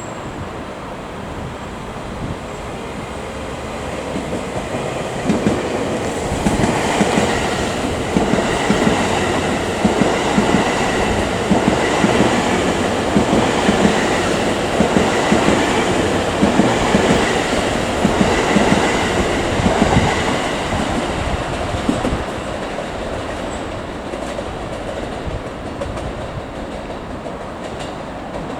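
Electric train passing, its wheels clicking rhythmically over the rail joints. It builds from about four seconds in, is loudest through the middle stretch, and fades after about twenty seconds.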